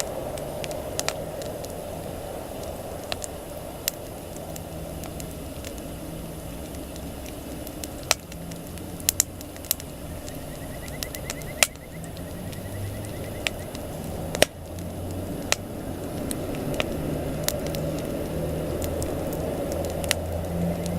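Wood campfire burning, crackling with irregular sharp pops, one louder pop about two-thirds of the way through, over a steady low rush of flame.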